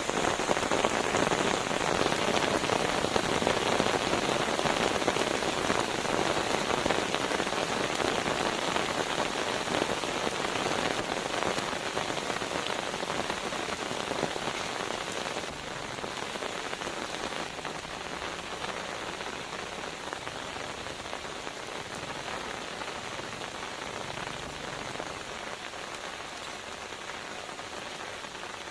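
Steady rain falling in a dense, even patter that slowly grows quieter.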